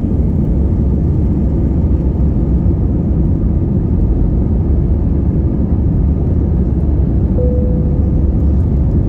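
Steady low rumble of an Airbus A320-214's CFM56-5B engines and airflow heard from inside the passenger cabin during takeoff or the climb. A short single tone sounds once near the end.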